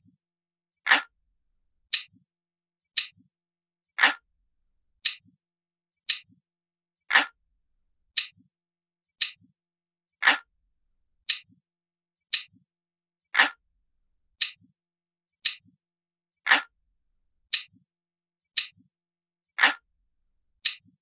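Glass-like clock ticking sound effect of a countdown timer, one crisp tick about every second, with every third tick louder and fuller.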